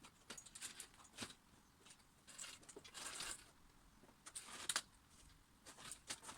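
Near silence, with a few faint short rustles and clicks scattered through.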